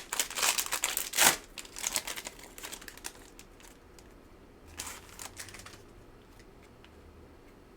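Foil wrapper of a 2022 Select football card pack crinkling as it is handled and torn open, dense crackling for the first three seconds and a shorter burst about five seconds in.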